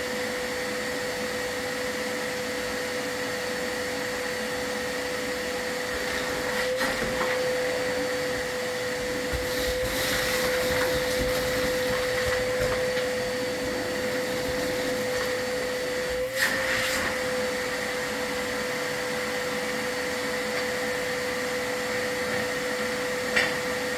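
Vacuum cleaner motor running steadily with a constant whine, during a fireplace sweep. A few brief knocks and louder rustling noises come in over it, around the middle and near the end.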